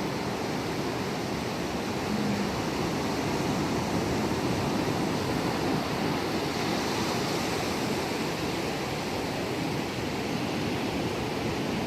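Ocean waves washing in a steady, continuous noise with no distinct breaks.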